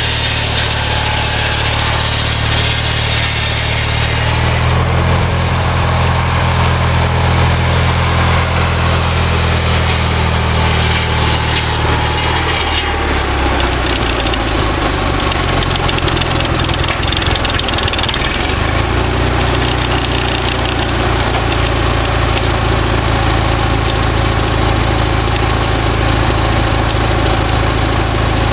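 Small lawnmower engine driving a homemade sawmill, running steadily. Its note shifts about five seconds in, wavers from about 13 to 19 seconds in, and then settles again.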